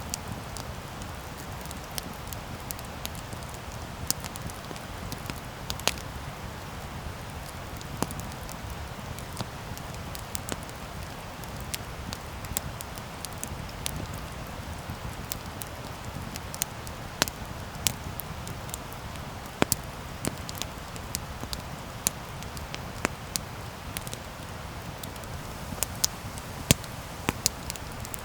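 Campfire crackling: irregular sharp pops and snaps of burning wood, coming more often and louder in the second half, over a steady low rumble of the flames.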